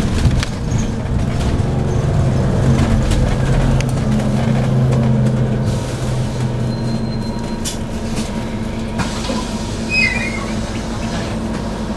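Scania OC09 9.0-litre biogas engine of a double-deck bus heard from on board, running steadily under way with a low hum. The hum eases off about seven seconds in, and a brief high squeak comes about ten seconds in.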